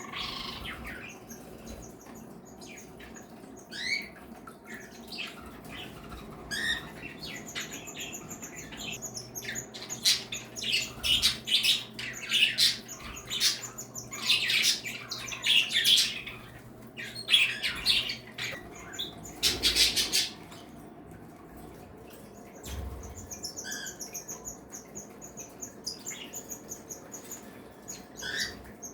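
Mixed flock of pet cage birds (cockatiels, budgies, Bourke's parakeets, canaries and java sparrows) chirping, whistling and squawking over one another. The calls come thickest and loudest in the middle, with a short rushing noise about twenty seconds in, then thin out to scattered chirps.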